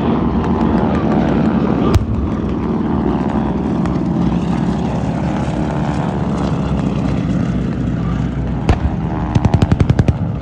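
A low-flying aircraft at an air show, its engine roar loud and steady with a slowly sweeping tone as it passes. There is a single sharp crack about two seconds in, and a rapid string of sharp pops near the end.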